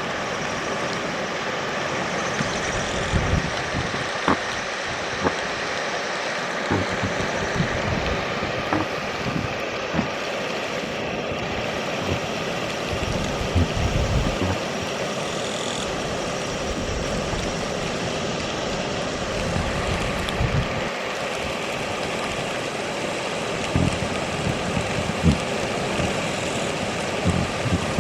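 Yoshino River water rushing steadily, with occasional short low thumps of wind buffeting the microphone.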